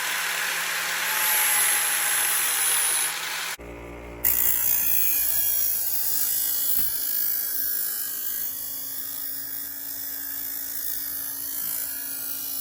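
Handheld power tool running on the go-kart's metal: a bright, hissing grind for the first three or so seconds, then after a brief break a steadier machine sound.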